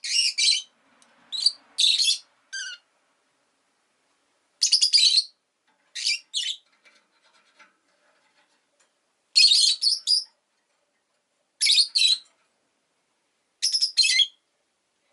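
Rosy-faced lovebird giving shrill, high-pitched chirps in short bursts every second or so, with silent gaps between.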